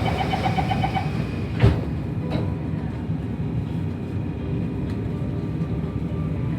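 Metro train door-closing warning: rapid beeping that stops about a second in, then the doors shut with a sharp thump and a fainter knock, over the steady low hum of the train car interior.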